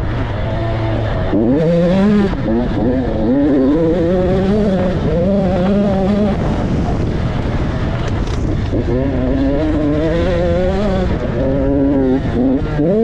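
Motocross motorcycle engine riding hard, its pitch climbing and dropping over and over as the throttle opens and closes through the gears.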